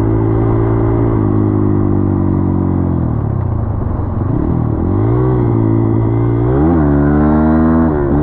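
Dirt bike engine running at steady throttle, easing off about three seconds in, then picking up again. Its pitch climbs and drops sharply twice near the end.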